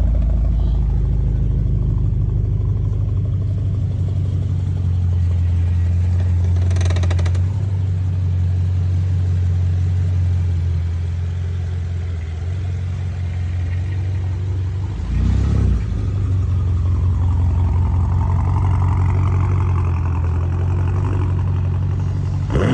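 2011 BMW X5 M's twin-turbo V8, with its mufflers deleted, running at a steady low idle, with one brief blip of the throttle about two-thirds of the way through.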